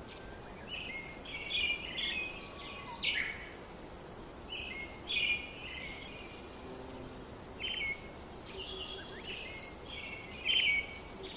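Songbirds chirping and twittering in short repeated phrases, with pauses of a second or two between them, over a faint steady background hiss.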